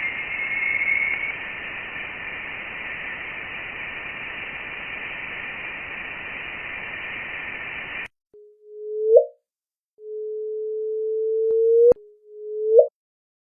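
Electronic, radio-like sounds: a hiss of static in a narrow band for about eight seconds, cutting off suddenly, then three steady tones. Each tone swells louder and slides upward at its end, and the middle one is the longest.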